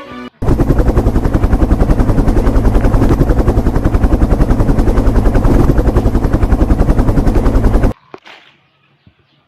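A loud, rapid, even pulsing noise, about a dozen beats a second, that runs for about seven and a half seconds and cuts off suddenly, followed by a few faint clicks.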